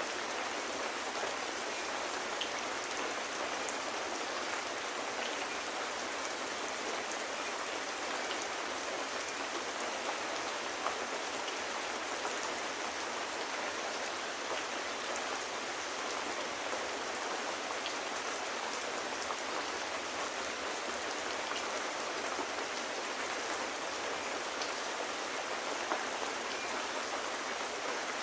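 Steady rain falling, an even hiss with a few faint, scattered ticks of drops.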